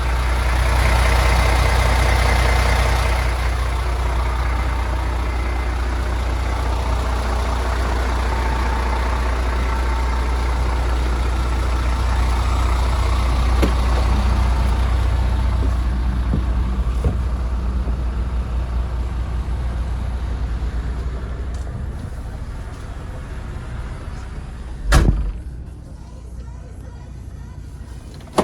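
MAN TGX 26.470 truck's 470 bhp six-cylinder diesel idling with a steady low hum, a little louder for the first few seconds. A single sharp bang near the end.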